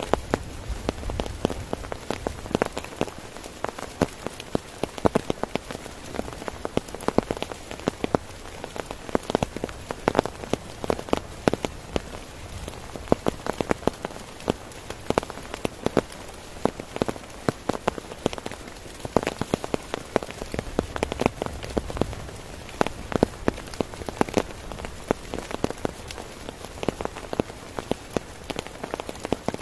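Heavy rain falling on a tent: a steady hiss with many sharp, separate drop hits close by.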